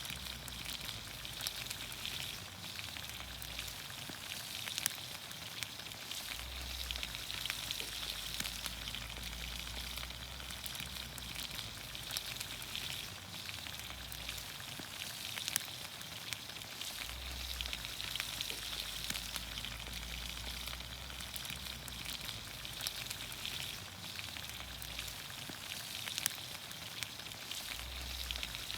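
Vegetables in olive oil sizzling in a pan over a campfire: a steady hiss with frequent small pops and crackles.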